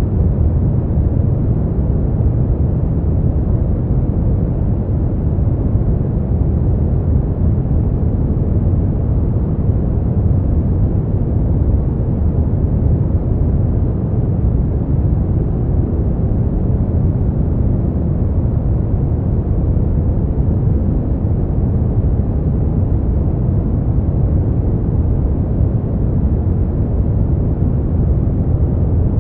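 Synthetic brown noise: a steady, deep rumbling hiss, heaviest in the bass and fading out toward the treble, with no changes or events.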